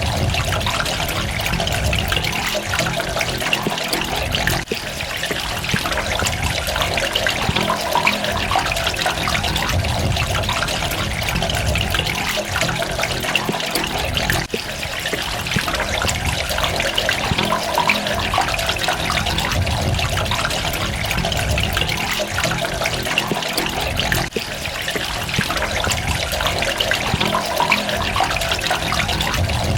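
Water running and splashing steadily, a dense patter of drops and trickles that dips briefly about every ten seconds.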